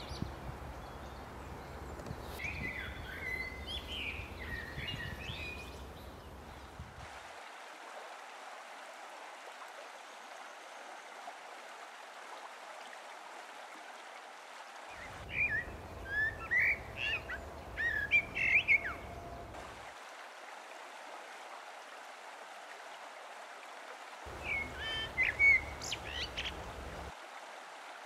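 Small birds chirping in three short spells of quick, high calls over the steady sound of running water.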